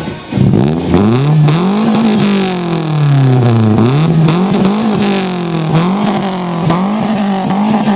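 Mazda 323F's Z5 1.5-litre four-cylinder engine free-revving through an aftermarket Mugen exhaust. A first long rev climbs and falls back, then several quicker blips follow, each rising and dropping about once a second.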